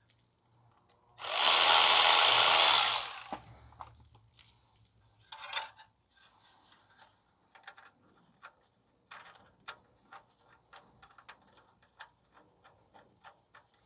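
Power tool running in one burst of about two seconds while driving a worm gear clamp tight around a loose exhaust heat shield, then a shorter burst. Small clicks and taps of metal parts being handled follow.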